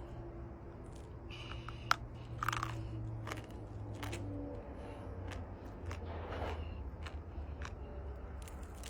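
A lump of crumbly, dry golden earth being bitten and chewed, with scattered short crunches and one sharper crack about two seconds in, over a steady low hum.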